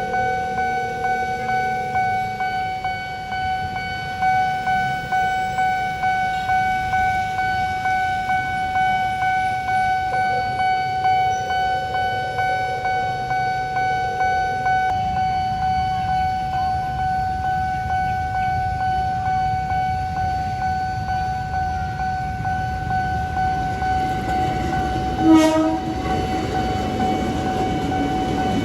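A railway level-crossing warning bell rings continuously in a quick repeating pulse while a train rumbles through. About 25 seconds in, a short, loud train horn blast sounds.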